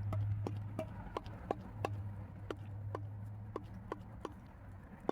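A series of sharp, light clicks, irregularly spaced at about two a second, over a steady low hum.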